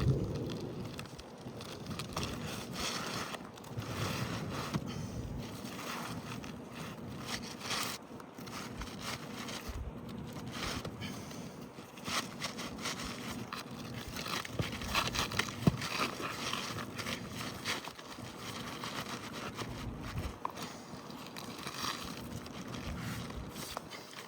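Asphalt roofing shingles scraping and rustling as they are handled, with irregular scrapes and small clicks as a replacement shingle is worked into place under the course above.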